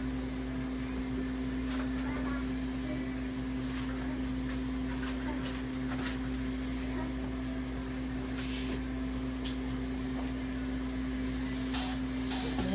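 Dental suction (saliva ejector) running, a steady hiss over a constant hum, drawing the extra toothpaste out of a child's mouth during a cleaning. Short louder hisses come about eight and twelve seconds in.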